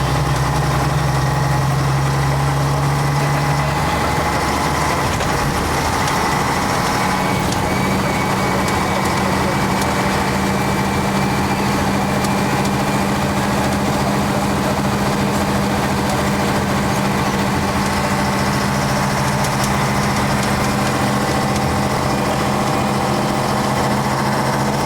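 Diesel engine of a 1966 Scania-Vabis BF56 bus running steadily; its note steps up to a higher, steady pitch about five seconds in and holds there.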